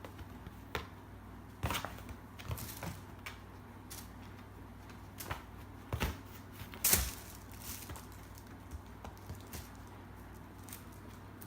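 Irregular taps, thumps and rustles of a kitten pouncing and scrambling after a cat teaser, the loudest thump about seven seconds in, over a low steady hum.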